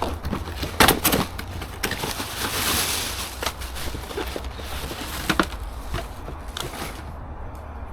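A cardboard box and its packaging being handled and rummaged through, with rustling and several sharp knocks over a steady low rumble.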